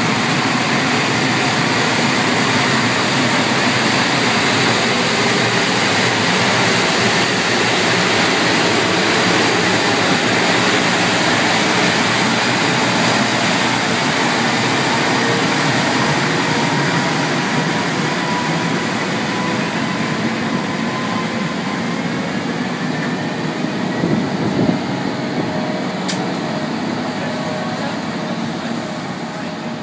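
EF510 electric locomotive and its 24-series sleeper coaches rolling out along the platform: a loud, steady rumble of wheels and running gear, with a faint whine that rises in pitch as the train gathers speed. A sharp click comes near the end, and the sound eases off as the coaches go by.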